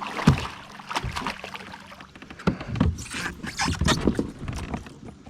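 Hooked freshwater drum thrashing at a kayak, with irregular knocks and thumps against the hull as it is unhooked.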